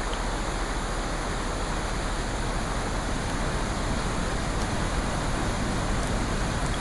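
Steady rain: an even hiss that neither swells nor fades, with a few faint ticks.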